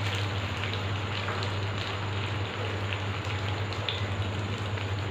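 Noodles and chicken sizzling in hot oil in a pan as they are mixed, a steady hiss with scattered small crackles. A steady low hum runs underneath.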